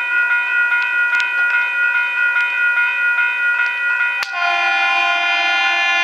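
Train air horn sounding a long, steady chord with a few faint clicks underneath; about four seconds in it cuts abruptly to a different, fuller horn chord that holds on.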